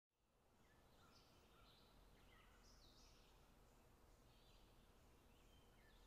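Faint birds chirping, a scatter of short calls over a low, steady outdoor hush.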